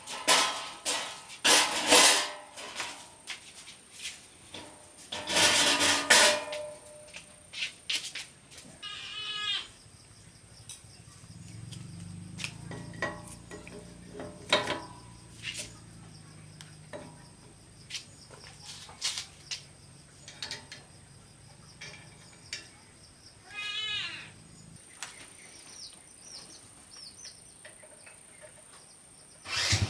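Metal clinks and knocks of hand tools on parts, some loud and close together near the start and around six seconds in. A faint low hum runs through the middle, and there are two short rippling high-pitched sounds, about nine and twenty-four seconds in.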